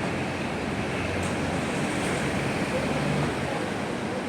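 Steady city street noise: passing road traffic and a general urban hum, with no single sound standing out.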